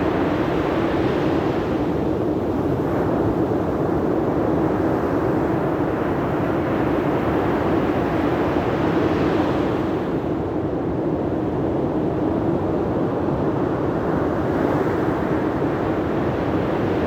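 Steady rushing noise of sea surf and wind, swelling a little louder and brighter about a second in and again about nine seconds in.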